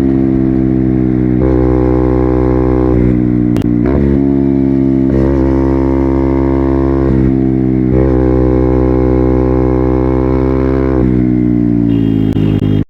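KTM Duke 200's single-cylinder four-stroke engine through an Akrapovic full-system exhaust, pulling through the gears under way. The note holds and climbs, then breaks briefly at each of several shifts, and falls away as the bike slows near the end.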